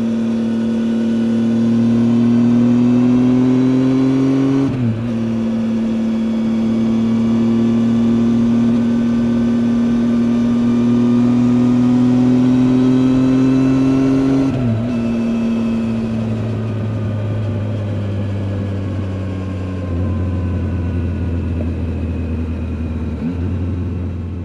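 Triumph Tiger 800 XCA's three-cylinder engine under steady, gradual acceleration, heard onboard. The pitch climbs slowly and drops sharply at two gear changes, about five seconds in and again around fifteen seconds. The engine then eases off and slows, with a short throttle blip near the end.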